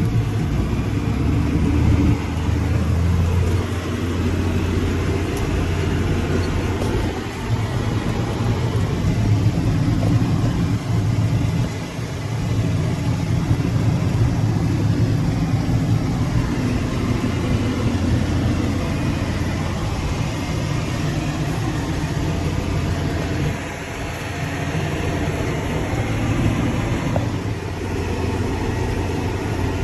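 Tractor engine running steadily under load while pulling a harrow, heard from the operator's seat as a constant low drone with brief dips in level now and then.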